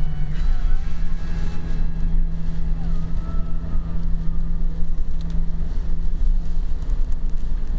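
Car driving along a road: a steady engine drone over a low rumble of tyres and wind.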